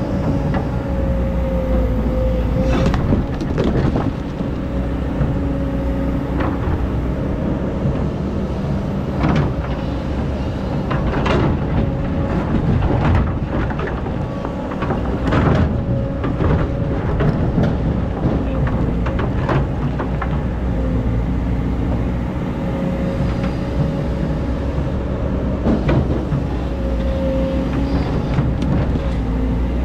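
Excavator's diesel engine running steadily under load with a held whine, and irregular sharp knocks and scrapes, thickest in the middle, as the bucket digs through hard-packed old sand.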